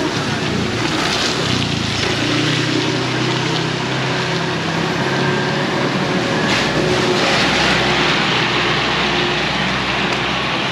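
Heavy rain pouring down in a torrent, with a steady engine hum of a motor vehicle running close by.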